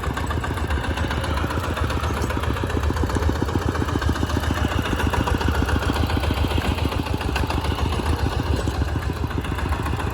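Tractor engine running steadily, its rapid firing pulses even and unbroken.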